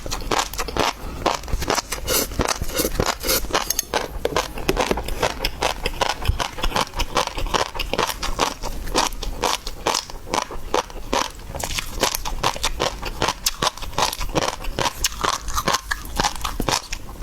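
Mukbang eating of seafood such as raw prawns: biting, crunching and chewing, a dense, irregular run of sharp crackles and wet clicks.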